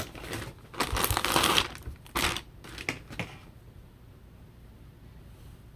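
Bag of toy stuffing crinkling and rustling as a handful of stuffing is pulled out, in several bursts over the first three seconds or so.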